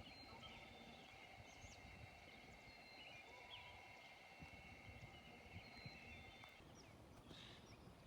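Near silence: faint outdoor ambience with a faint steady high tone that stops near the end, and a few faint scattered chirps.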